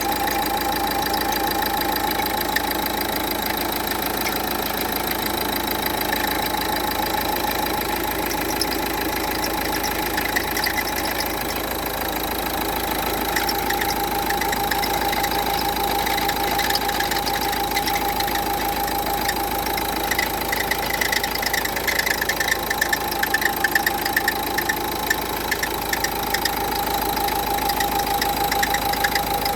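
Renault Duster 1.5 dCi four-cylinder diesel engine idling with a steady whine and a fast, even rattle: the strange noise put down to a worn alternator pulley.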